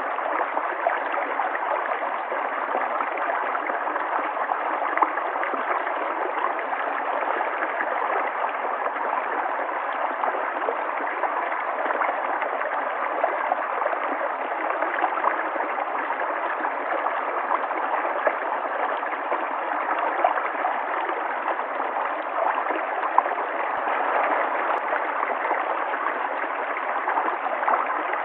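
A river's flowing water: a steady, even rush that keeps on without a break.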